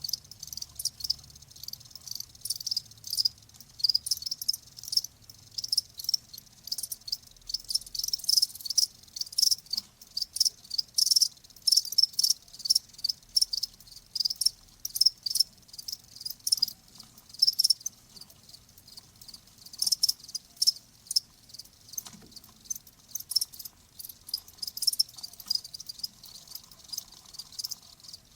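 Crickets chirping: rapid, overlapping high-pitched chirps, several to the second, with no pause.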